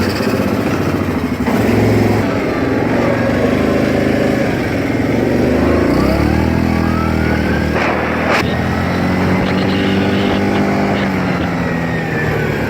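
Quad (ATV) engine just started and running, its revs rising and falling, with a sharp click about eight seconds in.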